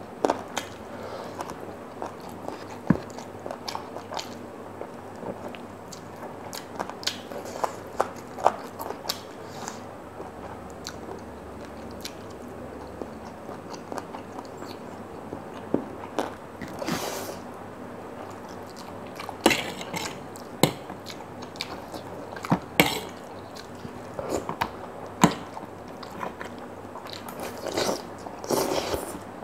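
Close-up eating sounds: biting and chewing saucy fried chicken and a fried egg, with sharp clicks and wet smacks coming at irregular intervals and more often near the end.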